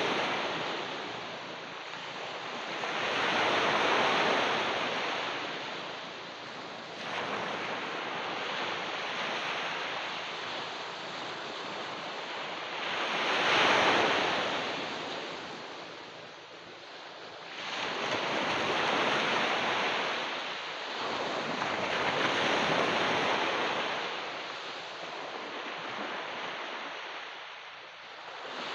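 Ocean waves washing onto a beach, the surf swelling and ebbing every few seconds with a rushing hiss, the loudest swell about halfway through.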